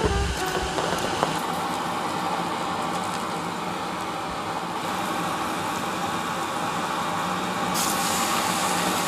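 Chopped garlic sizzling in oil on a hot griddle plate over a gas burner, a steady hiss. Near the end the sizzle gets louder and brighter as sliced meat is dropped onto the plate.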